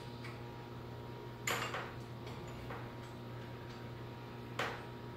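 A few light metal clinks, three in all, from steel winding bars being handled in a garage door torsion spring's winding cone.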